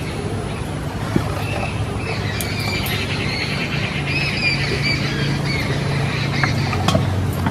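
Birds chirping and squawking with short, arching high calls over a steady low hum. A couple of light clicks come about a second in and near the end.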